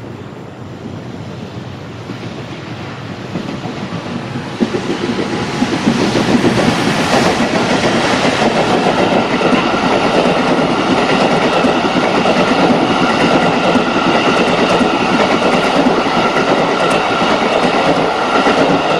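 An EF210 electric locomotive approaches and passes, hauling a string of unpowered Tokyo Metro 18000 series subway cars on their own wheels. The wheel-and-rail noise grows louder over the first several seconds, then holds loud and steady as the cars roll by.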